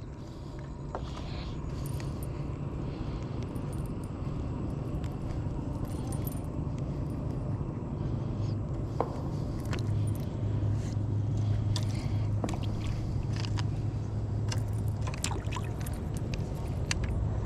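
Light metallic clicks and clinks of a fishing lure and its hooks being handled while the lure is changed, over a steady low rumble that grows louder about ten seconds in.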